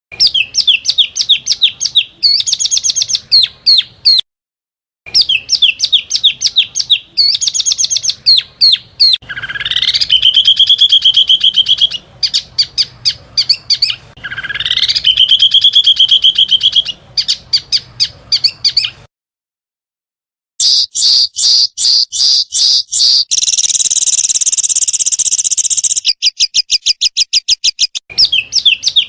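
Recorded small songbirds giving rapid-fire 'tembakan' calls: fast strings of sharp, high chirps, with two phrases that sweep upward into a held, wavering trill and a buzzy, rasping phrase near the end. The song is cut by two brief spells of dead silence, where the recording has been edited.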